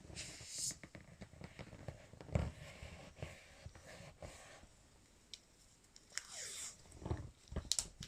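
Close handling noises from an inflatable vinyl beach ball: irregular rustling, rubbing and small clicks, with two brief hissy swishes. The loudest knock comes about two and a half seconds in, and a few more come near the end.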